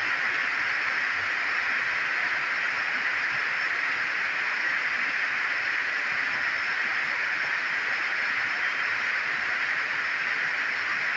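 Heavy rain falling in a steady downpour, an even hiss with no letup.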